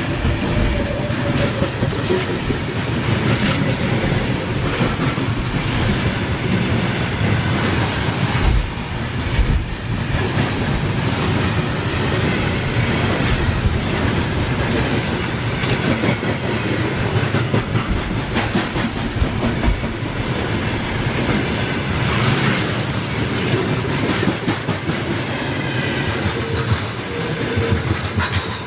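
Train cars rolling past at close range, their wheels clattering over the rail joints in a continuous clickety-clack.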